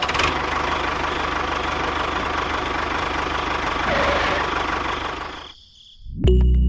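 Small motor of a homemade mini tractor running steadily with a fine, rapid rattle, then cutting off about five and a half seconds in. Background music starts just before the end.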